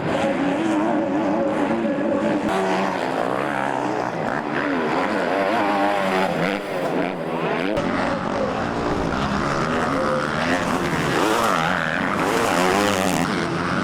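Several motocross motorcycles racing, their engines revving with pitch rising and falling as the riders work the throttle and shift; one climbs steeply near the end.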